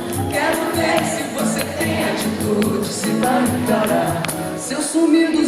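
Live band playing a Brazilian pop song with a sung vocal line over it and steady percussion.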